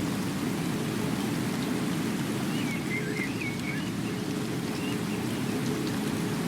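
Steady rain falling. About two and a half seconds in, a short, high warbling whistle sounds over it for a little more than a second.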